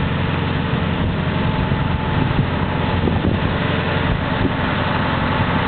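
Scania 143 truck's V8 diesel engine running steadily at low revs.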